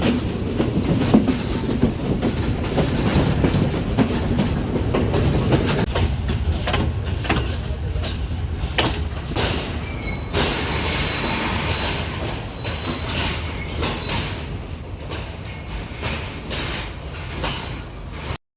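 Passenger train running on the rails, with a low rumble and irregular wheel clicks over the rail joints. From about ten seconds in a high, steady metallic wheel squeal joins in and holds until the sound cuts off abruptly at the end.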